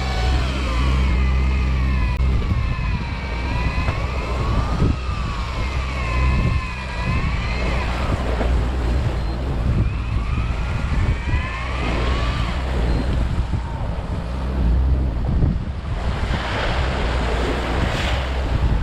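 Electric fishing reel motor whining as it winds in line, its pitch wavering up and down about every two seconds, over the steady low rumble of the boat's engine and wind.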